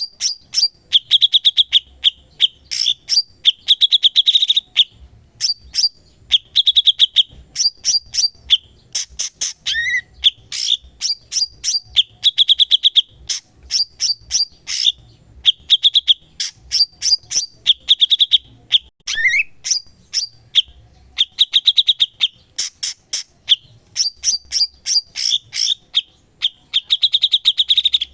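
Cucak cungkok singing continuously: rapid high trills alternating with sharp repeated chip notes. Twice there is a short lower rising note.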